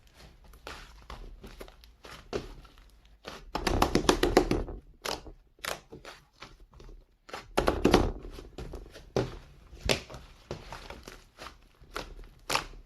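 Slime being squeezed and poked by hand, giving a run of sticky clicks and snaps, with dense crackling bursts about four seconds in and again near eight seconds.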